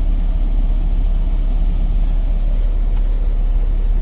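Semi truck's diesel engine idling, heard from inside the cab as a steady low rumble.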